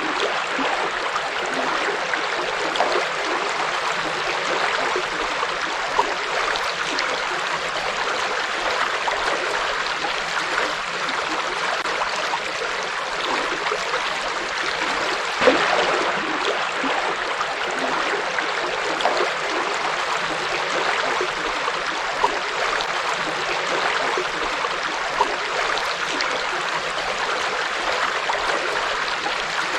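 A forest river flowing: a steady rush of running water, with a few brief louder splashes, the clearest about halfway through.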